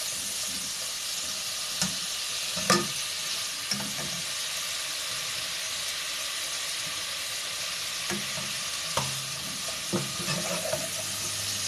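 Chicken and spice masala sizzling in hot oil in a pan, with a spoon now and then knocking against the pan as it is stirred.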